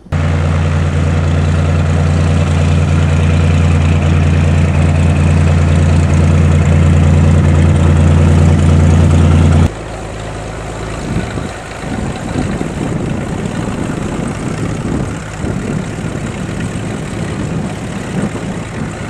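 Light propeller airplane's piston engine running steadily at idle, loud and close. About ten seconds in it cuts abruptly to a quieter, rougher engine sound that rises and falls.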